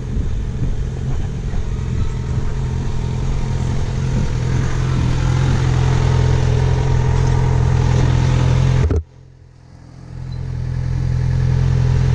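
Yamaha FZ6R's 600 cc inline-four engine running with a steady hum that grows louder from about four seconds in. About nine seconds in the sound drops abruptly to quiet, then builds back up.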